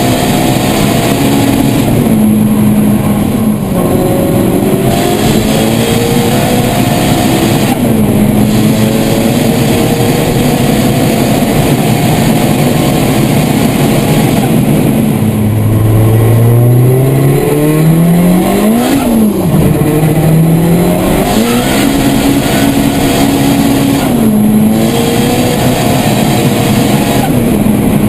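Heavily tuned 700-horsepower Volkswagen Golf engine running hard, its pitch repeatedly climbing and dropping as it revs and shifts. About nineteen seconds in it makes one long climb to a peak, then falls away.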